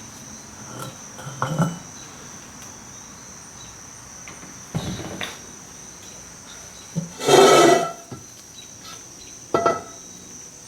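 A few metallic knocks and clatters as a wheel-hub puller is taken off a steel brake drum, the loudest a longer rattle a little past halfway. A steady high insect chirring runs underneath.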